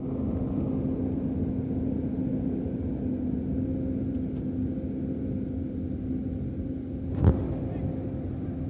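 Truck engine running steadily with a constant low hum, and one sharp knock about seven seconds in.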